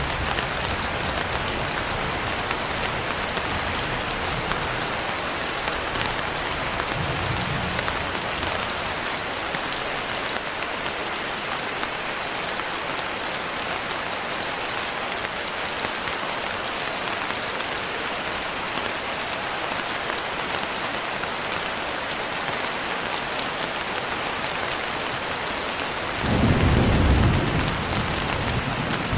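Steady heavy rain hissing, with a faint low rumble of thunder about seven seconds in and a louder roll of thunder a few seconds before the end.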